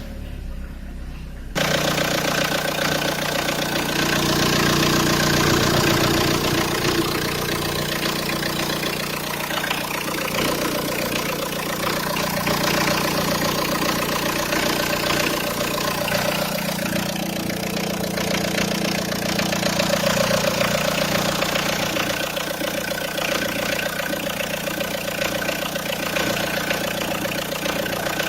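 Opel Astra G's Z17DTL 1.7-litre four-cylinder turbodiesel idling steadily. It comes in suddenly about a second and a half in.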